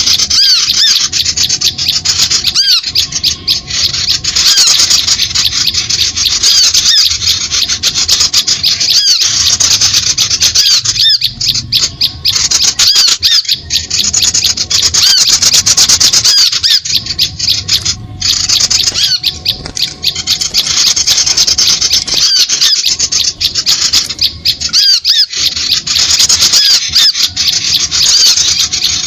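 Bird-trapping lure recording of many small birds calling together: a dense, unbroken stream of rapid, high-pitched chirps and squeaks. It is the kind of call track played to draw small birds onto lime sticks.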